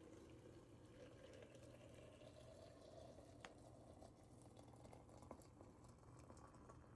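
Liquid being poured into a glass, faint, its pitch rising steadily as the glass fills, then a single light tick about three and a half seconds in and a few small ticks after.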